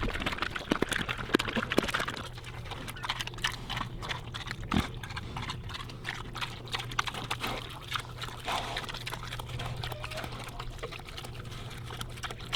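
Farm animals eating a wet vegetable mash: rapid wet smacking and clicking, busiest in the first couple of seconds, over a steady low hum.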